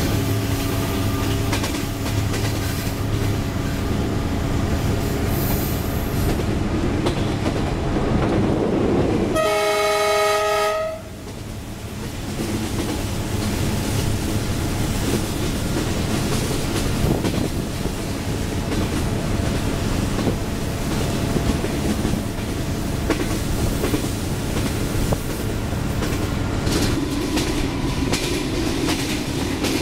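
Train running with a steady rumble and clack of wheels on rail. A horn sounds once for about a second, ten seconds in.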